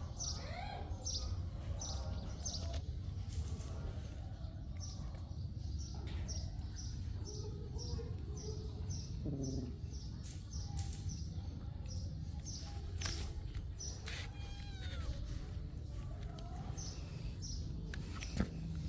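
A small bird chirping over and over, short high chirps about twice a second that fade out about halfway through, over a steady low hum. A few scattered clicks.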